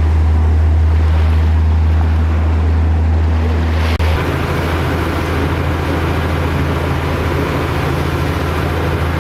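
Boat engine running with a steady deep drone over water and wind noise; about four seconds in there is a brief dip, after which the drone carries on slightly rougher.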